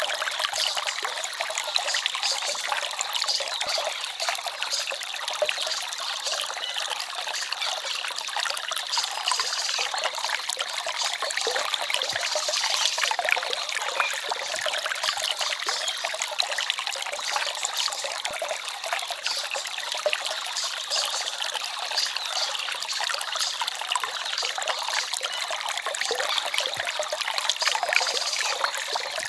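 Small forest stream trickling and babbling steadily, a bright, splashy wash of water with almost no low rumble.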